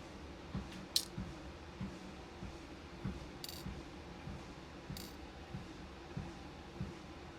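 Footsteps thudding evenly on a walking pad treadmill, about one and a half steps a second, over its motor's low steady hum. Three sharp clicks of beads being handled come about one, three and a half, and five seconds in.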